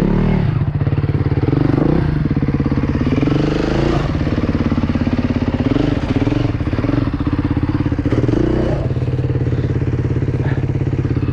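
2016 KTM 350 EXC-F four-stroke single-cylinder dirt bike engine at low revs, the throttle blipped in short bursts so the pitch rises and falls about every two seconds, then settling to a steady idle about nine seconds in.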